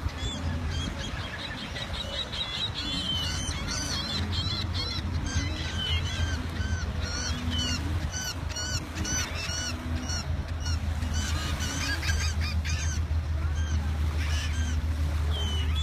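Birds calling repeatedly in short rising-and-falling notes, many in quick succession, thinning out near the end, over a steady low rumble.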